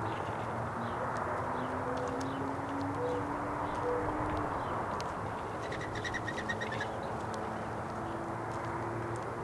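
Small birds chirping in short scattered calls, with one quick trill about six seconds in, over a steady low background rumble and drone.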